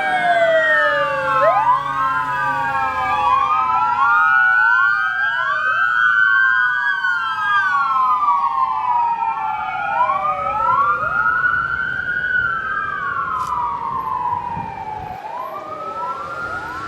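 Several police car and fire engine sirens wailing at once, their rising and falling tones overlapping out of step, easing off slightly over the last few seconds.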